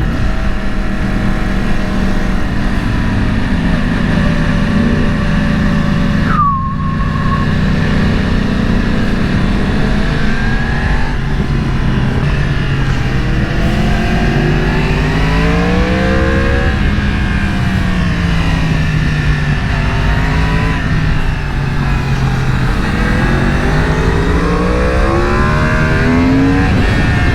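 Sportbike engine being ridden hard on a twisty road: it revs up through the gears and backs off for corners again and again, with a brief drop about six seconds in. Wind rush runs under it.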